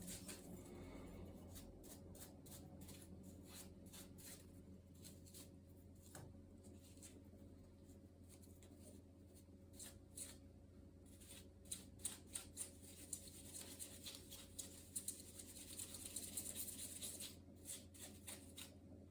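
Faint clicks and rubbing from hands handling laptop parts during disassembly and cleaning, over a steady low hum.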